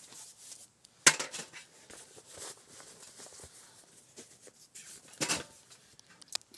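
Several sharp knocks and clatters of objects being handled, the loudest about a second in and another cluster about five seconds in.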